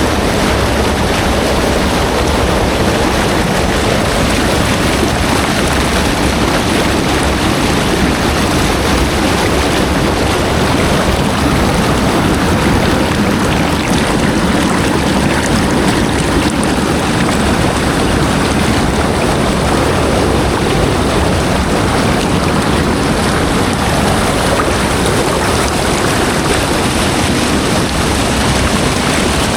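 Steady, loud rushing water that runs on unbroken.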